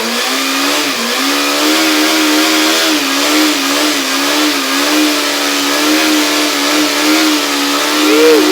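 Motorcycle engine held at high revs during a burnout, spinning the rear tyre in place. The revs sag briefly every second or two, then rise in a quick blip near the end.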